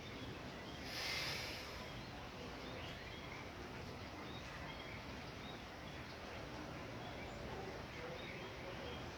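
Light rain falling steadily, with faint short chirps scattered through it and a brief swell of hiss about a second in.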